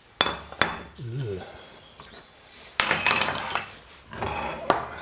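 Steel parts of a Land Rover steering box clinking and clattering against each other and the bench as the box is opened up, with a few sharp metallic knocks.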